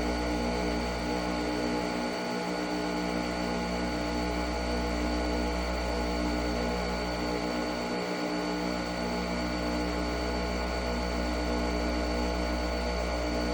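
A steady machine hum, a motor running with several constant tones over a strong low drone that dips briefly twice.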